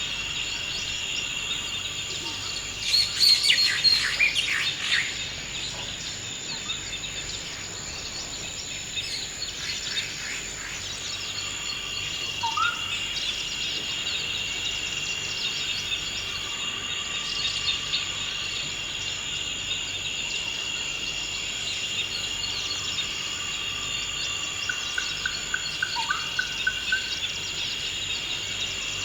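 Forest ambience: a steady insect drone of high, even tones, with songbirds calling over it. The loudest moment is a burst of bird song about three seconds in, and a few short chirps come later.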